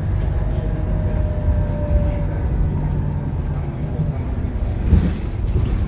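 Scania K230UB city bus heard from inside while under way: the diesel engine and drivetrain give a steady low rumble, with a faint whine rising slightly over the first couple of seconds. A single louder thump comes about five seconds in.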